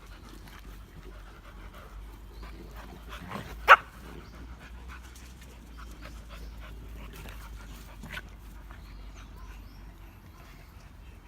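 Dogs play-fighting, panting, with one short loud bark about a third of the way in and a fainter one later.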